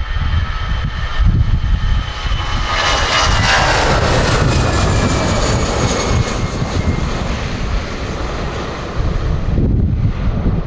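Boeing 757 jet airliner passing, its engine whine swelling about three seconds in and then falling slowly in pitch as it goes by. Heavy wind rumble on the microphone runs underneath.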